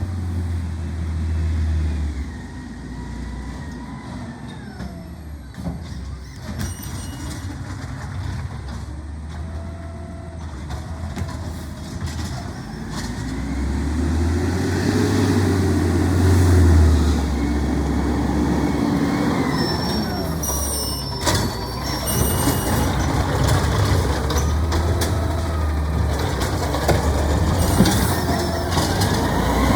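Garbage truck engine running, swelling and rising in pitch about halfway through and again near the end, with an air-brake hiss and short high squeaks.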